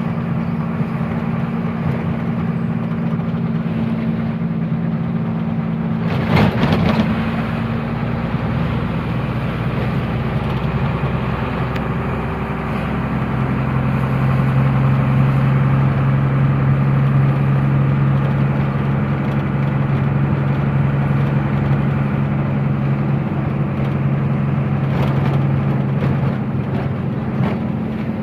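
Truck engine running steadily on the road. A lower, louder engine tone sets in about thirteen seconds in and holds until near the end, and there is a brief loud rush of noise about six seconds in.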